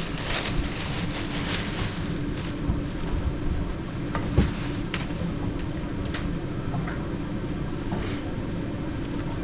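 A steady low mechanical hum with a few scattered short metallic clicks and knocks, the loudest about four seconds in, consistent with tool work on a car during reassembly.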